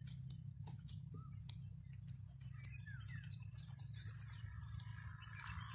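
Faint birds chirping and calling, short scattered notes and quick whistles, over a low steady hum, with a few sharp clicks.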